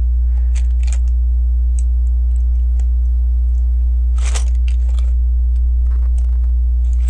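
Light plastic clicks and taps of LEGO pieces being handled, with a brief rustle about four seconds in, over a steady low electrical hum.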